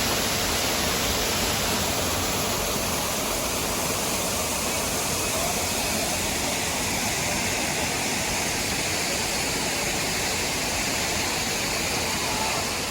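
Waterfall on a rocky mountain stream, a steady rush of falling water.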